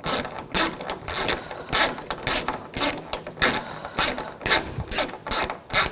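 Hand ratchet with a T25 Torx socket loosening a door handle screw, its pawl clicking in short bursts about twice a second as the handle is swung back and forth.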